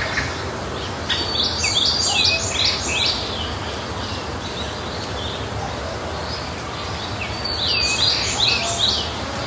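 A songbird singing two short phrases, each a quick run of falling whistled notes, one about a second in and one near the end, over a steady low background noise.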